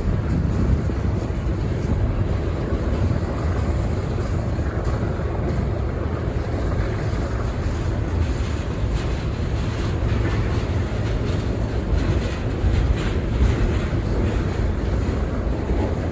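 Freight train rolling past, a steady low rumble mixed with wind noise on the microphone.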